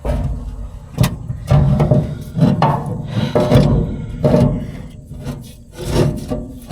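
Irregular scraping, rubbing and knocking of heavy metal parts being forced by hand, with a sharp knock about a second in.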